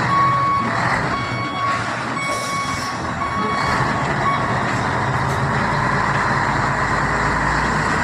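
Scania 770 truck's V8 diesel engine running steadily while its reversing beeper sounds in evenly spaced beeps, about two a second; the beeping stops a little past halfway and the engine carries on.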